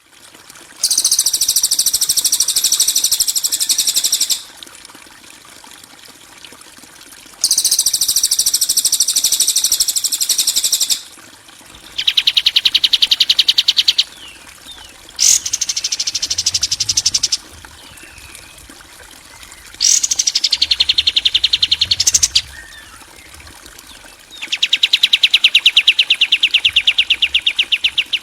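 Harsh-style birdsong tutor recording (masteran kasaran) for training caged songbirds: six loud, rapid trilled phrases, each two to four seconds long, with short pauses between. The first two phrases are high and buzzy; the later ones are lower, fast chattering trills.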